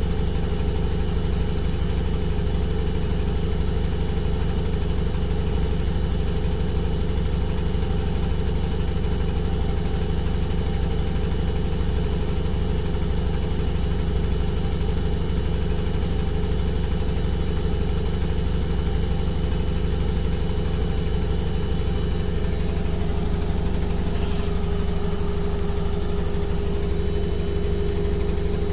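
Washing machine running: a steady low motor hum with a few steady whining tones over a soft rushing noise. A faint higher tone joins about three quarters of the way through.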